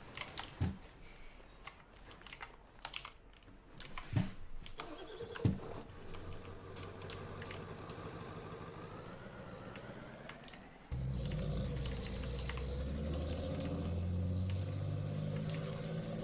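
Scattered clicks and knocks, then a faint hum with a slowly rising tone. About eleven seconds in, a vehicle engine running at a steady pace takes over abruptly, much louder.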